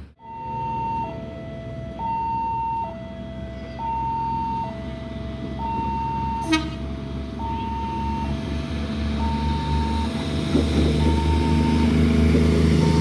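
Railway level-crossing warning signal sounding a steady two-tone alternating alarm, high then low, each tone lasting just under a second, which means a train is approaching the crossing. It sounds over a low steady engine rumble, and a rising rumbling noise builds near the end.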